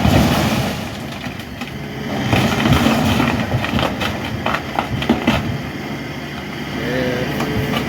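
A large engine running steadily, with several sharp metallic clanks and knocks over it.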